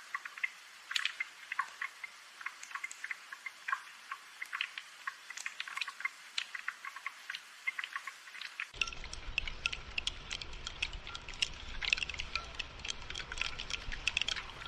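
Rain falling, a dense, irregular patter of individual drops tapping and dripping. A low rumble joins the patter about nine seconds in.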